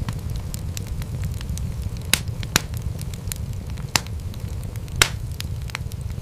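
Wood fire crackling in a fireplace: a steady low rumble of flames under frequent small crackles, with four louder pops.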